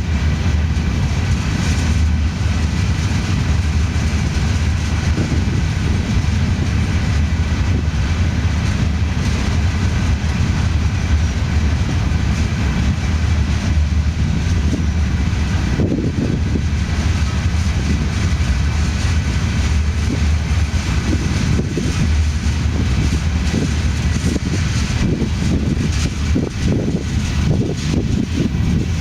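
Freight train of empty hopper cars rolling past with a steady, continuous low rumble.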